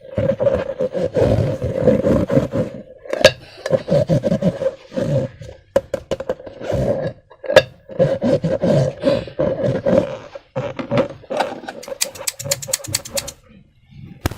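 Hands squeezing and rubbing rubber balloons and slime: rubbery squeaks and squelching with a few sharp sticky clicks, then a quick run of about ten clicks a second near the end.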